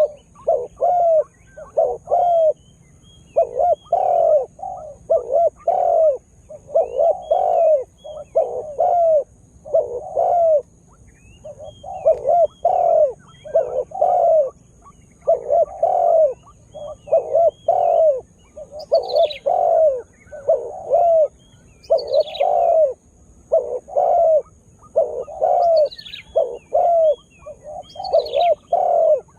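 Spotted dove cooing over and over in quick phrases of several low coos, a phrase about every two seconds. In the second half, another bird adds about five short high whistles that fall in pitch, with a faint steady high whine behind.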